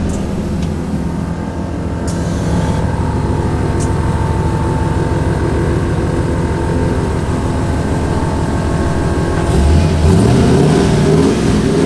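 Pickup truck engine running steadily just after being jump-started from a dead battery, with a brief rise and fall in engine pitch near the end.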